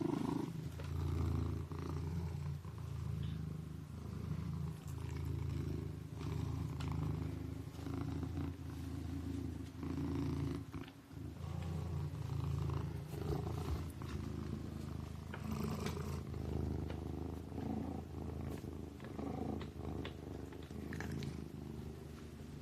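A sleeping kitten purring, a low steady rumble that swells and eases with each breath, about every one and a half to two seconds.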